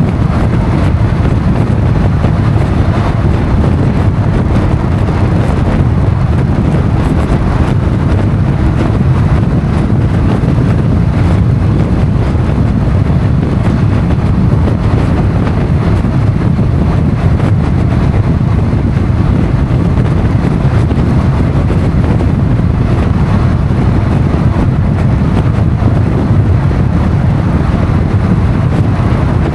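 Motorcycle under way at steady speed: a constant rumble of engine, road and rushing air, with wind buffeting the microphone.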